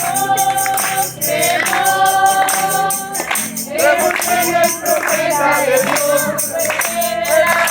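A group of people singing a Spanish-language gospel chorus, with a tambourine keeping a steady beat.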